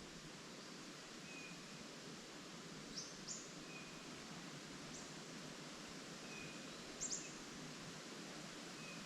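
Wild birds calling: a few sharp, high chirps, some in quick pairs, and a short fainter note repeating every couple of seconds, over a steady background hiss of wind in the leaves.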